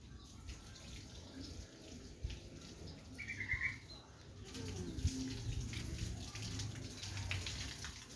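A bird gives one short chirp about three seconds in, over low rumbling background noise that grows into a broader rustling, hissing noise from about halfway through.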